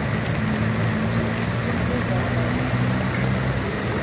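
Heavy rain pouring down steadily, with a low hum underneath.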